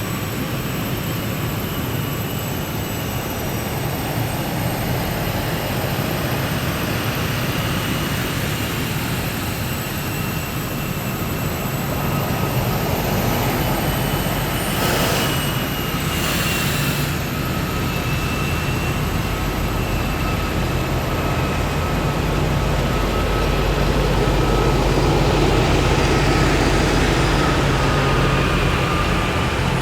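Heavy military vehicles driving past in a column: a steady engine rumble with a high, steady whine over it. There are two short hisses about halfway through, and the rumble grows louder near the end as more vehicles come close.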